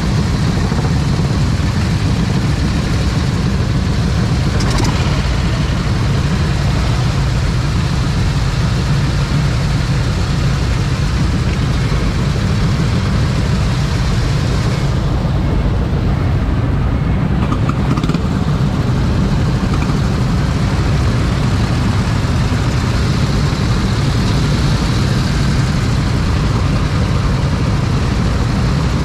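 Motorcycle engine running steadily, a heavy, even low rumble with no change in pace.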